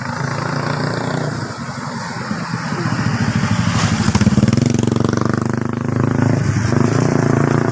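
Motorcycle engine running steadily, picking up revs and growing louder about three seconds in.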